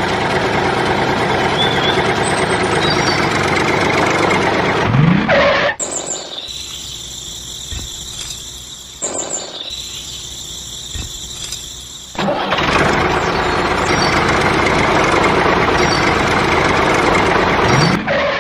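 Miniature DIY tractor running with a steady engine-like drone. It drops to a much quieter stretch from about six to twelve seconds in, then comes back at full level.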